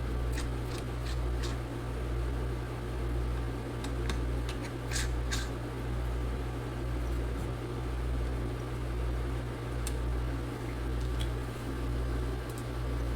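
Steady low hum with a slow waver, with a few small clicks and ticks of a small Torx screwdriver working screws on the laptop's cable bracket.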